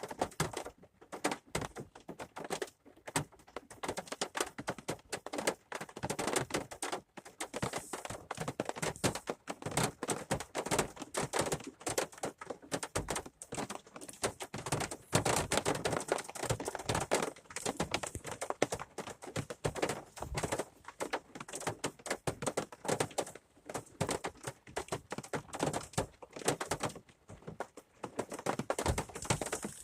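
Rain falling, with drops tapping densely and irregularly on a hard surface close by.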